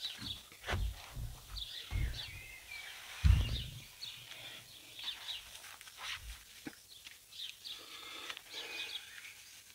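Small birds chirping and twittering in the background, with a few low dull thumps, the loudest about three seconds in.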